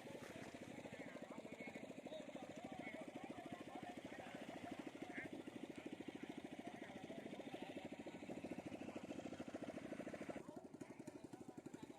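A small engine running steadily with a rapid, even beat, its sound thinning about ten seconds in.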